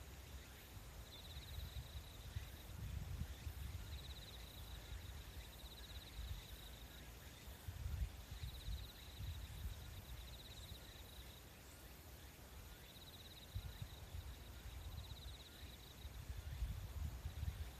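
Insects trilling in repeated bursts about a second long, a few seconds apart, over a faint, uneven low rumble.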